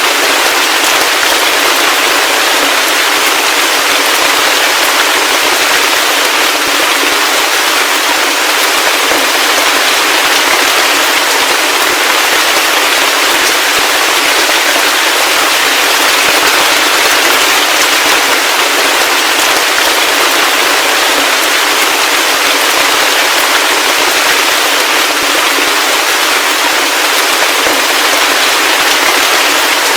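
Heavy rain falling steadily: a dense, even hiss of countless drops with no lulls and no low rumble.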